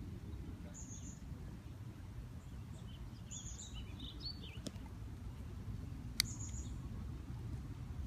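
Small birds giving short high chirps a few times and a brief warbling twitter, over a steady low rumble; a single sharp click about six seconds in.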